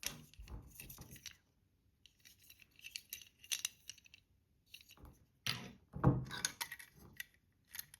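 Toy packaging of plastic and card being handled and opened by hand: irregular crinkling and rustling, with several sharper clicks and knocks in the second half.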